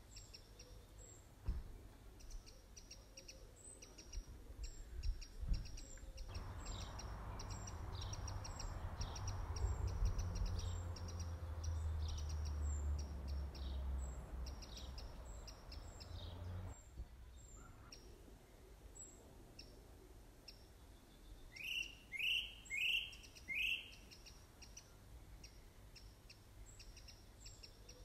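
Small birds chirping, with many short, quick notes throughout. A steady rushing noise with a low rumble starts abruptly about six seconds in and stops abruptly about seventeen seconds in. Around twenty-two seconds a bird gives four louder calls in quick succession.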